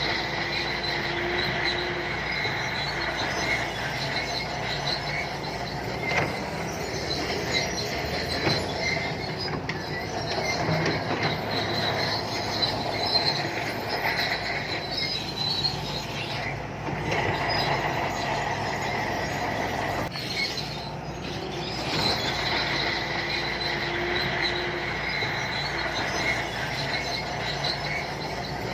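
Shantui crawler bulldozer working: its steel tracks squeal and clank steadily, high-pitched, over the diesel engine running beneath.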